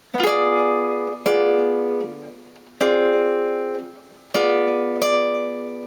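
Guitar chords struck one at a time, five strums in all, each chord left to ring and die away: seventh-chord voicings in chord-melody style.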